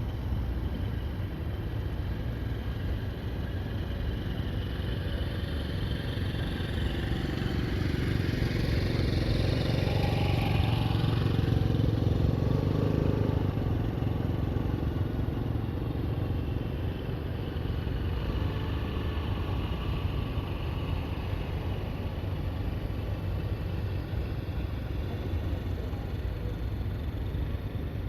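A steady low background rumble, with a vehicle passing by that swells to a peak about ten to thirteen seconds in and then fades away.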